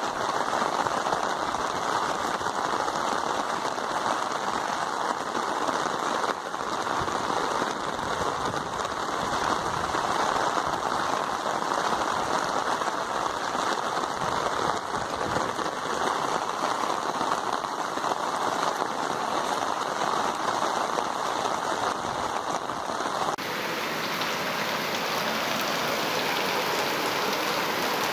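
Heavy rain falling steadily and hitting surfaces in a dense, even hiss. Near the end the sound shifts abruptly to a brighter, hissier rain.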